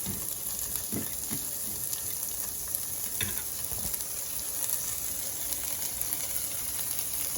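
Pieces of chicken frying in melted butter in a pan: a steady sizzle, with a few faint knocks through it.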